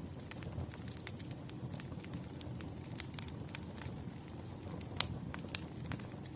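Burning firewood crackling and popping in irregular sharp snaps, over a steady low rumble of the fire. The sharpest pop comes about five seconds in.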